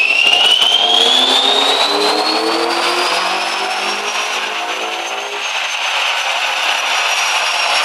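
2.0-litre 6A engine in a Volkswagen on a rolling road dyno, run at full throttle through a power pull: revs climb with a high whine rising in pitch. About five seconds in the engine note drops away as it comes off load, while the whine eases down slowly. The run reads 148.2 bhp, which the owner takes to be down on power.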